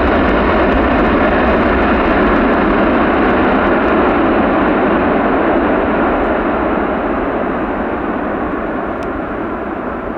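Jet airliner engines running loud and steady, slowly fading over the last few seconds.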